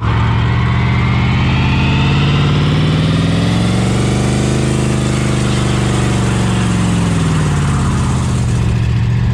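AMC 290 V8 held at high revs while the rear tyres spin through a burnout, the engine note swelling up and back down midway. A higher whine rises over the first few seconds.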